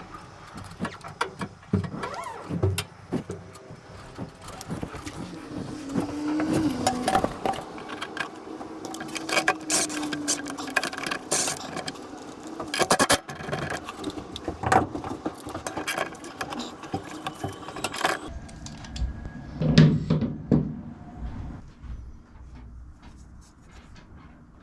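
Metal clanks, clicks and scrapes of workshop work on a lawn mower's cutting blade, with a steady hum for a few seconds partway through.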